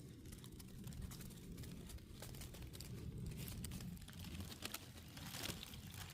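Faint low rumble with scattered light rustles and crinkles.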